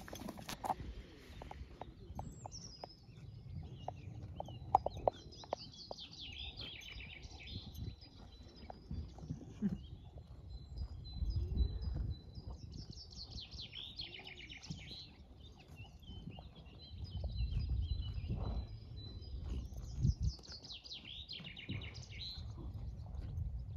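Songbirds singing in repeated high chirping phrases, over a low rumble with a few short sharp clicks.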